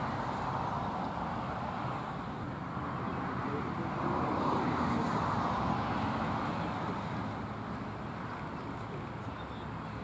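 Road traffic going by: a steady hiss of tyres and engines that swells about halfway through as a vehicle passes, then eases off.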